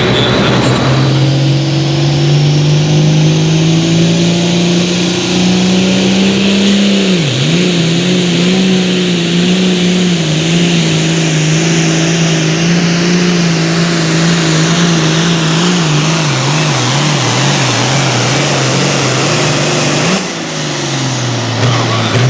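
Pulling tractor or truck engine at full throttle under load on a pull, holding a steady high pitch with a sharp dip about seven seconds in and a wavering stretch later on. About twenty seconds in the throttle comes off and the engine winds down.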